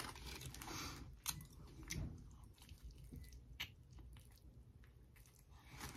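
Faint biting and chewing of a cheesesteak sandwich, with a few soft clicks.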